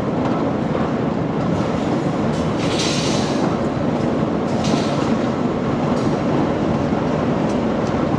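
Heavy machinery running with a steady, loud rumble. Brief hissing comes about three seconds in and again near five seconds.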